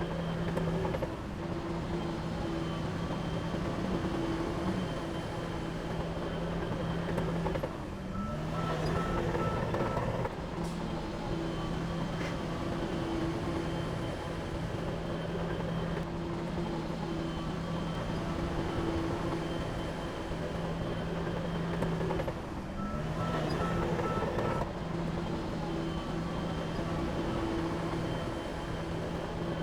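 Heavy diesel engine running steadily under work. Its note dips and changes twice, about a third of the way in and again near three-quarters, and each time a reversing alarm beeps briefly.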